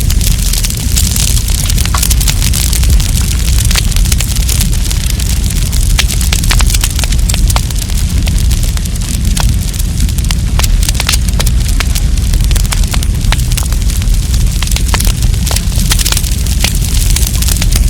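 Wood campfire crackling, with many sharp pops and snaps scattered irregularly over a steady low rumble of burning.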